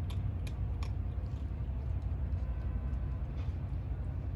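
Kittens crunching food: a few sharp clicks in the first second, then sparser ones, over a steady low rumble.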